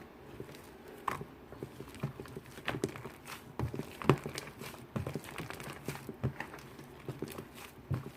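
Shaving foam being mixed and worked, giving irregular soft clicks and knocks, several a second.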